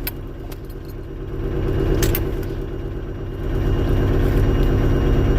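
Heavy diesel engine running, picking up revs about a second in and again past the middle. A sharp metallic clank comes about two seconds in.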